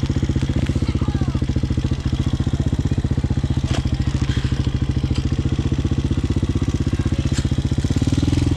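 Hawk 250cc single-cylinder dirt bike engine running steadily at low revs, its pitch rising near the end as it speeds up.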